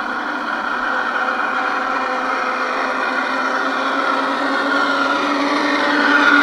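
Garden-railway model train running: a steady motor whine with a few held tones that rises a little in pitch and gets louder near the end as the train draws close.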